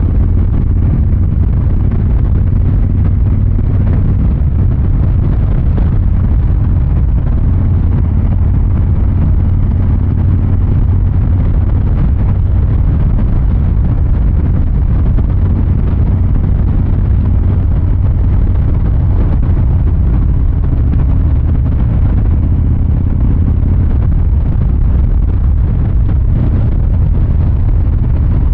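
Exhaust and engine of a 2023 Harley-Davidson Fat Boy 114, its Milwaukee-Eight 114 V-twin running at an even, deep note, with no sharp revs.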